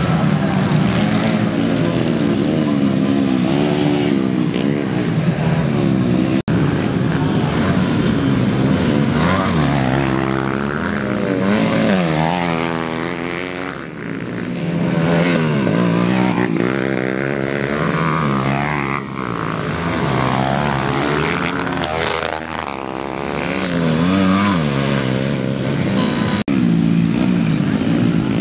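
Several motocross motorcycles racing, their engines revving up and falling off again and again as riders accelerate and shift through the track. The sound cuts out briefly twice.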